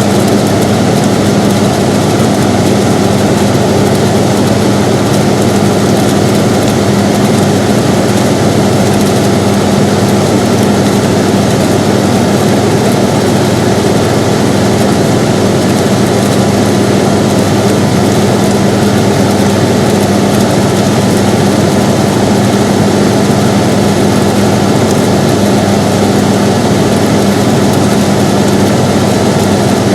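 Air conditioner running steadily, an even rushing noise with a constant low hum.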